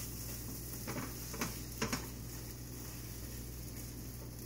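Scrambled eggs sizzling in a hot frying pan, with a few sharp scrapes or taps of a spatula against the pan about a second in and shortly after.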